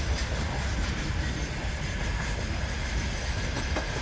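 Freight train hauled by a three-section 3TE10MK diesel locomotive passing, with a steady low rumble.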